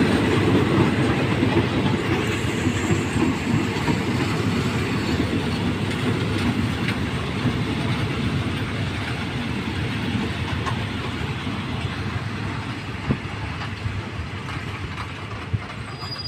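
Passenger coaches of a train rolling past on the track, their wheels rumbling and clacking over the rails. The sound grows steadily quieter, with a few sharper clacks near the end.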